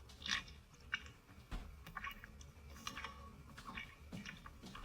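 Faint, irregular wet mouth sounds of oral sex: slurping smacks and clicks a few times a second, with no voice. The sounds are artificially created.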